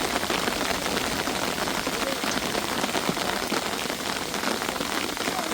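Heavy rain falling steadily on a surface, a dense patter of countless small drop impacts.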